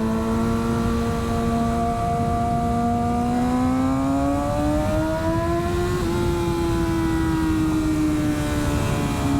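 Motorcycle engine pulling in one gear, its pitch climbing steadily for about six seconds, then levelling off and easing slightly down, over a constant low rush of wind.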